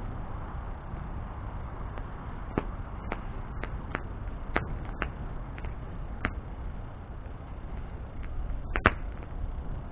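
Wood bonfire crackling: sharp pops at irregular intervals, the loudest near the end, over a low steady rumble.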